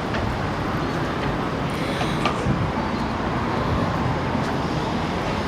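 Steady street ambience: road traffic going by.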